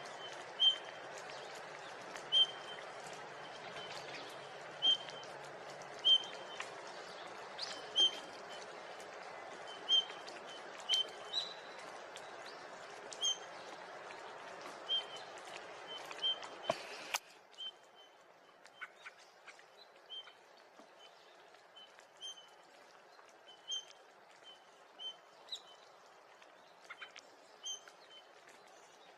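Eurasian bullfinch calling: short, soft whistled notes repeated about every one to two seconds. A steady background hiss cuts out about two-thirds of the way through, leaving the calls more exposed.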